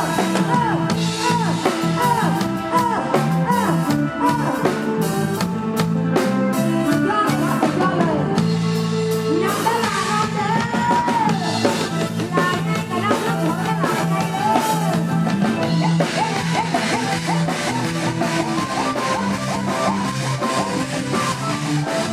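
Live Isan pop band music played loud: a drum kit beat, bass and guitar, with a sung melody line over them.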